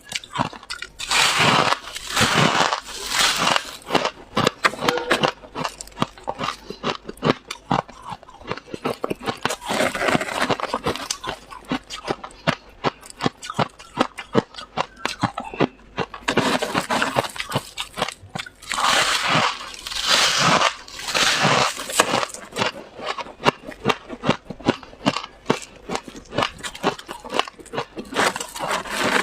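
Freezer frost being bitten and chewed: dense, rapid crunching throughout, with louder stretches of crunching every several seconds.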